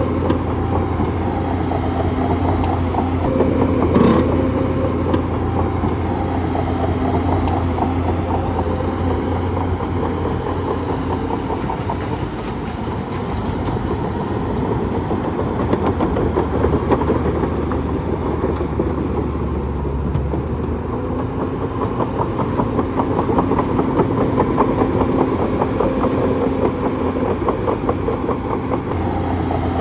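Bulldozer's diesel engine running steadily with a deep hum, and a sharp metallic knock about four seconds in.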